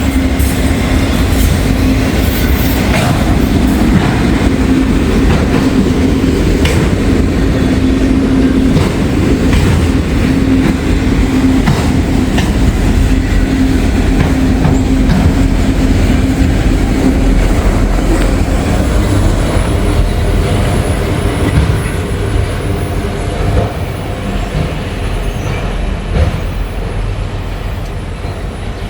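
Freight train cars rolling past, with wheels clattering over the rail joints and a steady low whine for the first two-thirds. The sound fades over the last several seconds as the train moves away.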